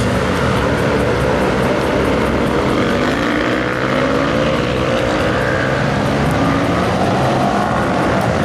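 Several supermoto motorcycles running on the track during practice, their engines overlapping and rising and falling in pitch as they accelerate and shift.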